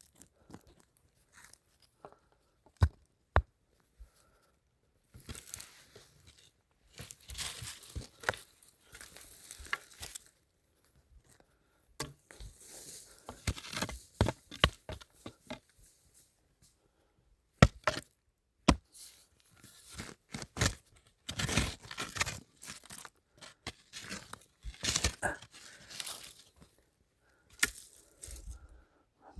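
Digging for wild hwanggi (Astragalus) root: irregular scraping, tearing and crunching of soil and roots, broken by a few sharp knocks of a tool.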